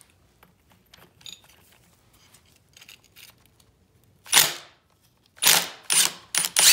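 Light tool clicks, then from about four seconds in five sharp, loud metallic bursts in quick succession as a tool works loose a staked nut on a Honda ATC 200x engine.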